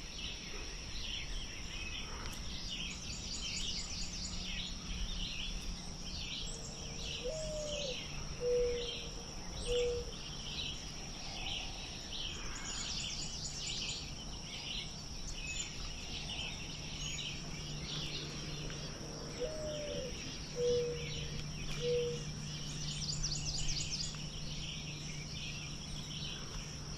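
Outdoor wildlife ambience of songbirds chirping and trilling over a steady high insect drone. Twice, about twelve seconds apart, a low call of three or four notes is heard, the first note rising in pitch.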